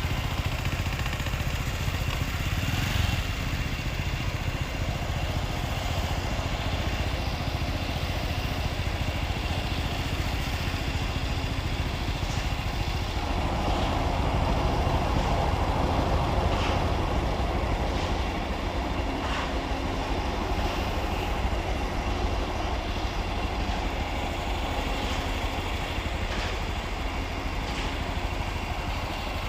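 Steady low mechanical rumble with a few faint clicks, swelling in the middle range about halfway through.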